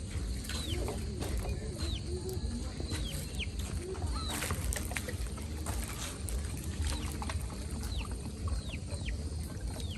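A bird giving short, falling chirps, roughly one a second, over a steady low rumble with a few scattered knocks.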